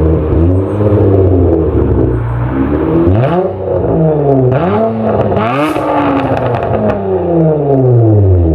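Hyundai Tiburon's exhaust through a Flowmaster Super10 muffler as the engine is revved: several quick throttle blips that rise and drop in pitch, then a longer rev that winds slowly back down near the end.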